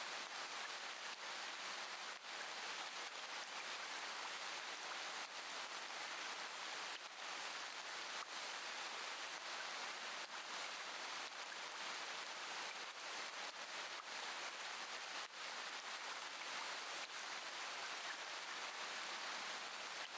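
Steady rain falling, an even hiss that keeps on without change.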